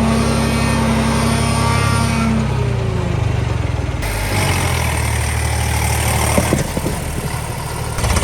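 Tractor diesel engine running, its note dropping about two and a half seconds in and changing again a little later, with a few sharp knocks about six and a half seconds in.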